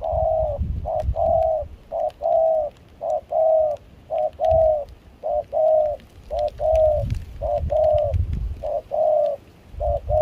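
Spotted dove (cu gáy) cooing: a steady series of two-note coos, a short note then a longer one, about once a second.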